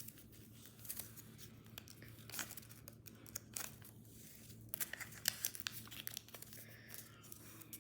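Sheet of paper being folded and creased by hand: soft, irregular rustles and crinkles as the flaps are opened and squash-folded.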